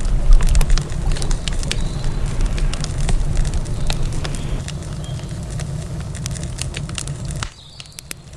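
Wood campfire crackling, with irregular sharp pops and snaps over a steady low rumble. The rumble drops away suddenly near the end, leaving the crackles quieter.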